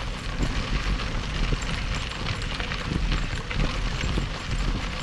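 Wind buffeting the microphone and rolling road noise from a moving recumbent trike, with irregular light ticks and taps throughout.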